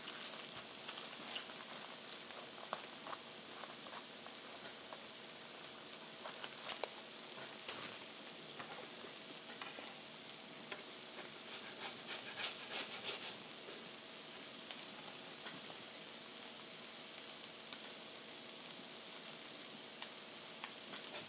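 Chicken birria tacos frying on a hot flattop griddle: a steady sizzle with scattered small pops and crackles.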